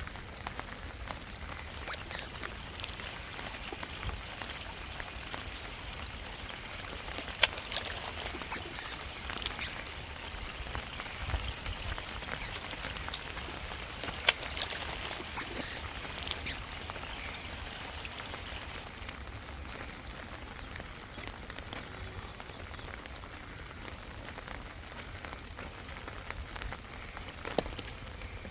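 Steady rain falling, with several clusters of short, high-pitched bird chirps, a few quick calls at a time, that stand out loudest above the rain.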